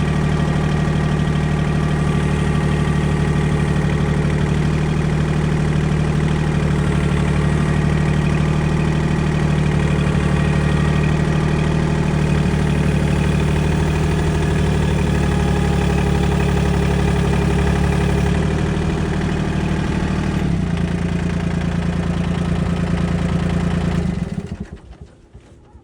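Tractor diesel engine running steadily, its pitch dropping a little about two-thirds of the way through, then cutting off near the end.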